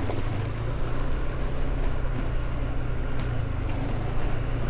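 Small motorbike or scooter engine running steadily while riding a rough stony farm track, with road and wind noise and faint rattling ticks.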